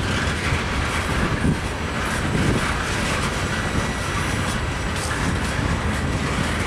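Freight train of tank cars and covered hoppers rolling past: a steady rumble of steel wheels on the rails, with a few clacks over the track joints.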